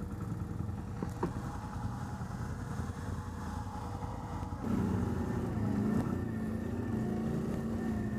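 ATV engine running, its revs and loudness stepping up about halfway through and then holding steady.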